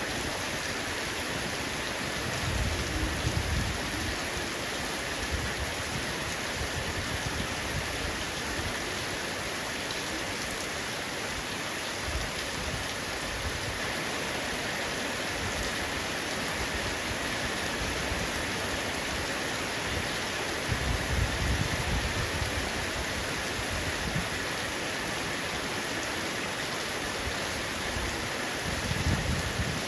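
Heavy rain falling steadily on a roof, an even hiss of drops. A low rumble swells briefly about three seconds in, again about twenty seconds in, and just before the end.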